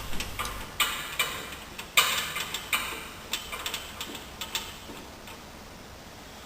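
A run of irregular sharp clicks and light knocks, the loudest about two seconds in, thinning out and stopping about five seconds in.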